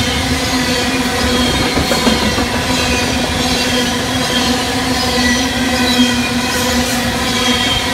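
Potash covered hopper cars of a freight train rolling past at speed, a steady rumble of wheels on rail with a continuous high ringing squeal from the wheels.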